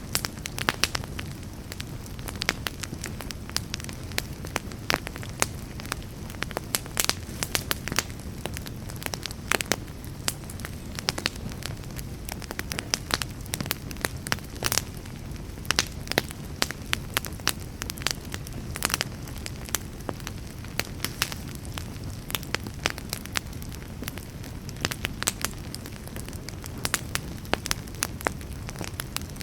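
Wood fire burning with irregular sharp crackles and pops, several a second, over a steady low rumble of flames.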